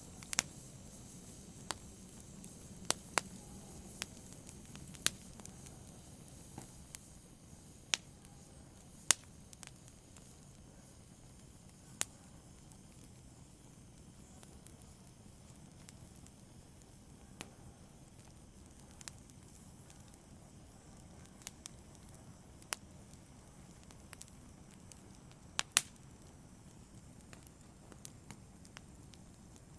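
Wood fire burning in a fireplace: irregular sharp crackles and pops over a low, steady hiss of flame.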